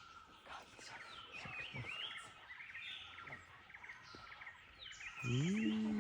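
Birds chirping and whistling in short repeated notes and falling glides, over a steady thin high tone. Near the end a loud, drawn-out low tone rises, holds level and starts to fall.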